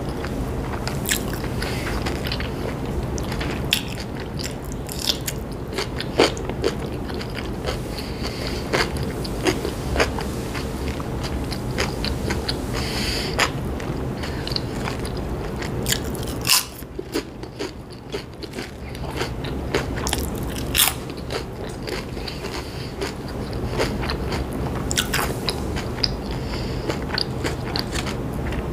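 Close-miked chewing and crunching of potato chips, with irregular sharp crunches and mouth clicks.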